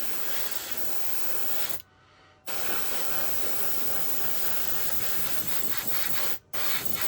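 Aerosol spray-paint can hissing in bursts as paint is sprayed onto a plastic model part: one spray stops about two seconds in, a long spray follows, and after a brief break another starts near the end.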